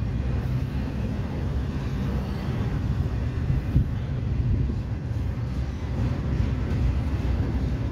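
Double-stack intermodal freight cars rolling past on the rails: a steady low rumble of steel wheels on track, with a single brief knock near the middle.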